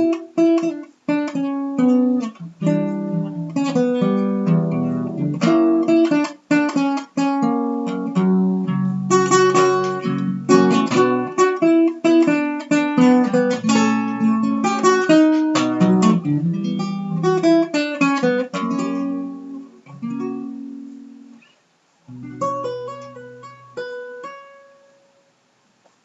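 Acoustic guitar playing an instrumental passage of strummed and plucked chords. It thins out about twenty seconds in, pauses briefly, then plays a short closing phrase that fades away.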